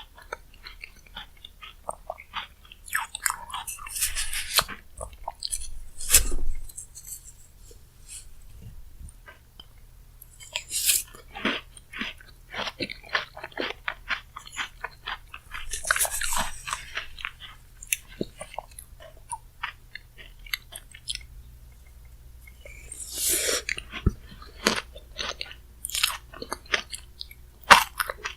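A person chewing and crunching mouthfuls of bingsu, shaved ice with chocolate-chip cookie pieces, close to the microphone. The chewing comes in several clusters of crisp crunches with quieter pauses and small mouth clicks between.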